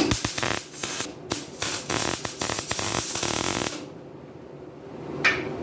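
Welding arc crackling and hissing on a steel exhaust pipe seam in short, uneven spurts for about three and a half seconds, then stopping. The weld seals the seam so the exhaust will not leak. A single sharp click comes near the end.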